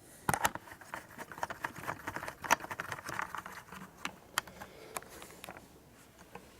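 Irregular light clicks and clatter of metal parts and tools being handled, thickest in the first few seconds and thinning toward the end.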